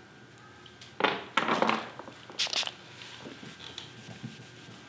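Glue residue from a paintless dent repair pull being cleaned off: a few short crinkling, rubbing scrapes about a second in, then a short sharp hiss.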